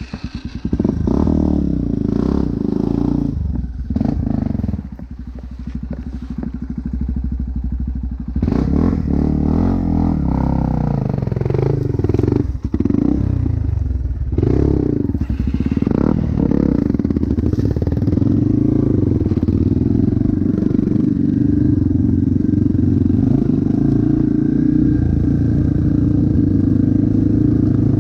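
Motocross dirt bike engine running, its revs rising and falling repeatedly through the first half, then held steady at a higher speed.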